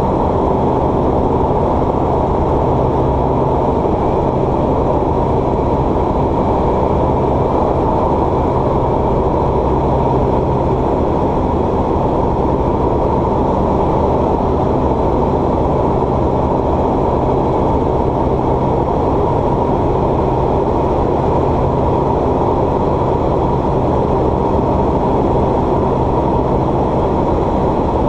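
Steady drone of a light aircraft's piston engine and propeller heard inside the cabin: a dense rush of noise with a low, even engine hum beneath it, unchanging throughout.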